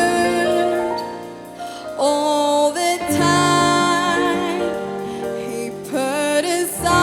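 A woman singing a slow worship song over keyboard accompaniment, holding long notes with a slight waver in pitch; the accompaniment deepens with bass about three seconds in.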